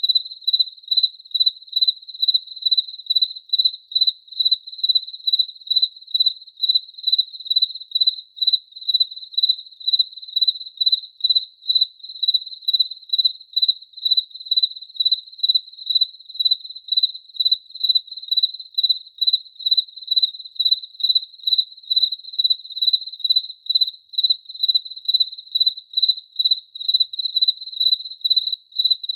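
A cricket chirping steadily: a single high-pitched trill repeated in an even rhythm of about two chirps a second.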